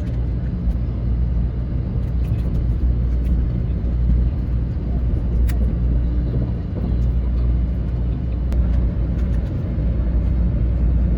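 Steady low rumble of a Shinkansen bullet train's cabin at speed, with a few faint clicks.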